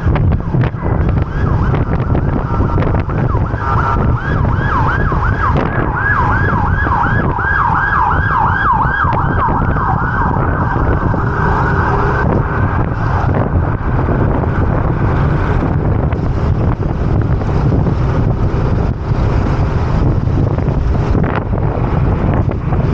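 An emergency-vehicle siren wailing in quick up-and-down sweeps, about two a second, growing louder and then fading away about halfway through. Steady wind buffets the microphone of the moving scooter throughout.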